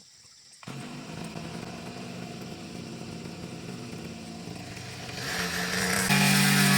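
Small two-stroke engine of a brush cutter starting up and running steadily, then throttled up near the end so it becomes much louder.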